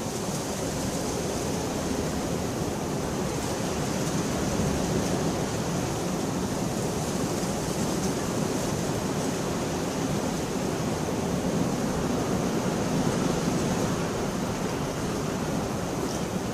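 Steady heavy rain, an even hiss with a low rumble underneath that swells slightly in the middle.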